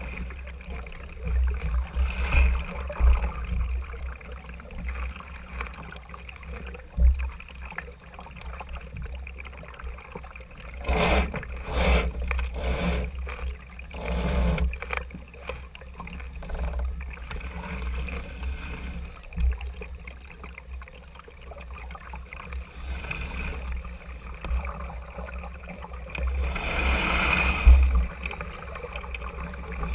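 Water washing and splashing against the hull of a small RS Tera sailing dinghy under way, over a constant low rumble, with a run of louder splashy bursts about eleven to fifteen seconds in and another near the end.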